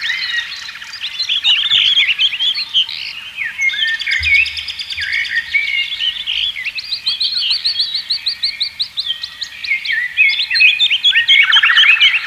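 Several songbirds singing and chirping at once, a dense chorus of overlapping trills, quick chirps and rapid note series.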